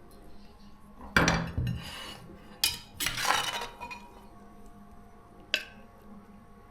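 Cutlery knocking and scraping against dishes: a few separate clinks and short scrapes.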